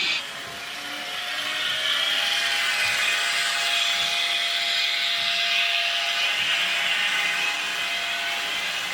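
Model train running on the layout: a small electric motor whines steadily over a continuous hiss.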